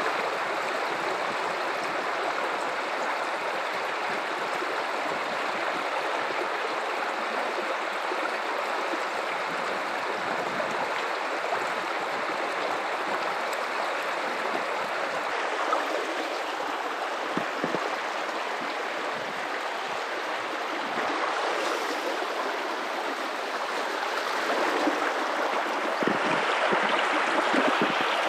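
River water running over rocks in a steady, continuous rush, growing slightly louder in the last few seconds.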